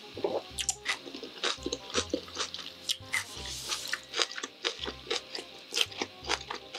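Close-miked chewing of spicy cold buckwheat noodles, a run of short wet mouth clicks and smacks at an uneven pace, with background music and a soft bass beat underneath.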